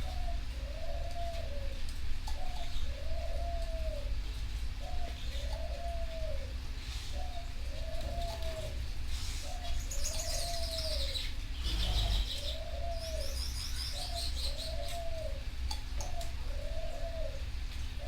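A dove cooing over and over, one short rising-and-falling coo about every second. High, fast twittering trills from small songbirds come in twice around the middle, over a steady low rumble.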